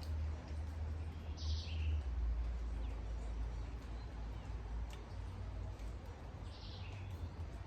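Steady rain hiss with a constant low rumble underneath. A bird gives two short high chirps, about a second and a half in and again near the end.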